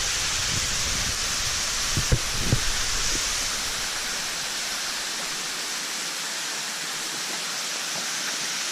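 Waterfall rushing close by: a steady, loud hiss of falling water, with a few low thumps about two seconds in.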